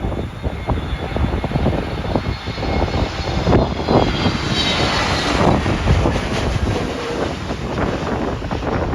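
Jet airliner passing low overhead on landing approach: the engines' whine falls in pitch as it goes by, over a loud rumble. Gusty wind buffets the microphone throughout.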